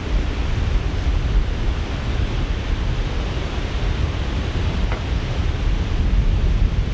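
Strong wind in a snowstorm buffeting the microphone: a steady, loud, low rumble of gusts, with a faint click about five seconds in.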